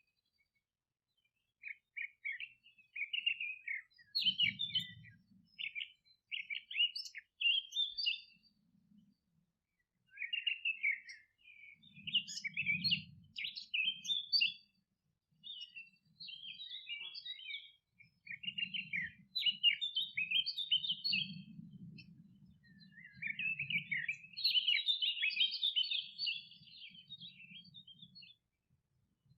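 Songbirds twittering in quick, high chirping phrases with short pauses between them, busiest near the end, over a faint low rumble that comes and goes.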